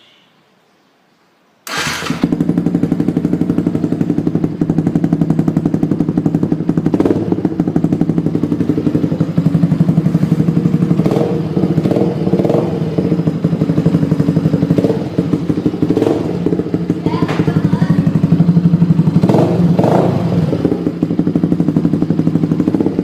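Yamaha R15 V2's single-cylinder four-stroke engine running loud through a small aftermarket dolphin silencer, coming in suddenly about two seconds in and running steadily, with a few brief revs along the way.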